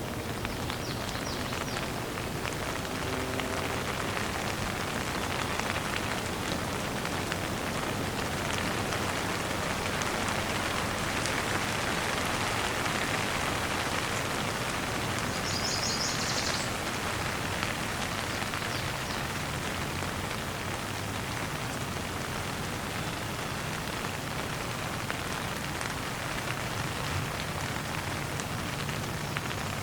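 Steady rain falling, drops pattering on the ground. About halfway through there is a brief high-pitched chirp.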